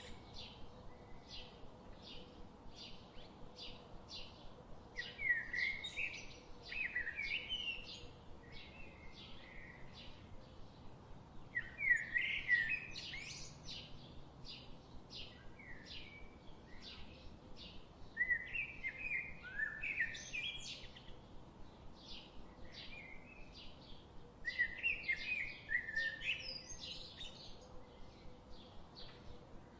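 Birds chirping: a steady run of short, high chirps, about two or three a second, broken every five or six seconds by a louder warbling phrase.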